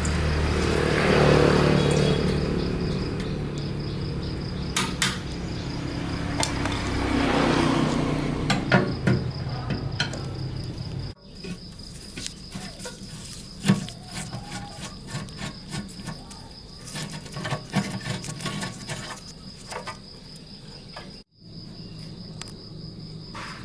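A power tool runs for about ten seconds with a steady hum and two swelling grinding surges, then stops abruptly, followed by scattered light clicks and knocks of hand work on metal parts. Crickets chirp steadily throughout.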